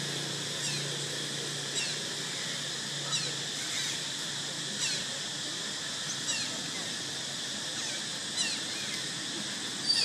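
Outdoor natural ambience: a steady high insect drone, with short, high, falling chirps repeating roughly once a second.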